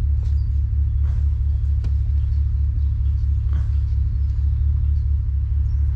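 Steady low rumble of a truck engine, with a faint click or two.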